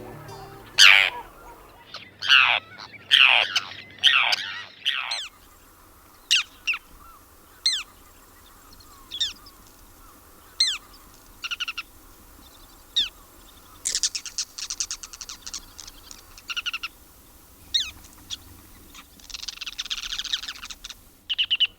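Wild birds calling: a series of short, sharp down-slurred chirps, then rapid chattering notes about two thirds of the way through and a buzzy call near the end. Background music fades out in the first few seconds.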